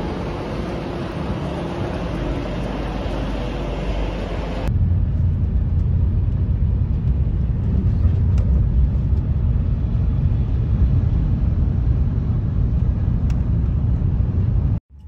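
Steady hiss of station platform noise beside a high-speed train. After a cut about five seconds in, it gives way to the steady low rumble of the train running along the line, heard from inside the carriage.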